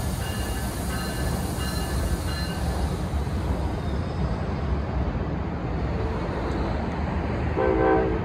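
NJ Transit electric commuter train rumbling into the station, with a high whine in the first few seconds and a short horn blast near the end.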